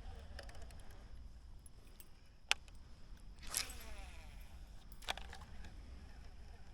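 Handling of fishing tackle in a kayak: a sharp click about two and a half seconds in, a short rustling burst a second later, and another sharp click near five seconds.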